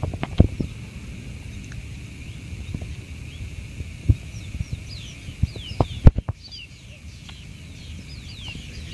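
Birds calling with a run of short, quickly falling high chirps from about halfway through, over a low steady rumble of wind on the microphone. A few knocks sound in between, the loudest about six seconds in.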